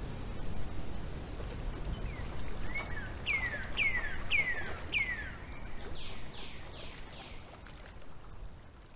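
A bird singing four whistled notes that each slide downward, about two a second, then four broader falling notes, over a steady low rumble of outdoor ambience. Everything fades out near the end.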